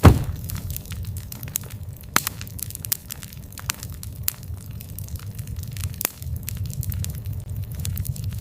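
Wood fire burning, a steady low rumble of flames with frequent sharp crackles and pops; the loudest pop comes right at the start.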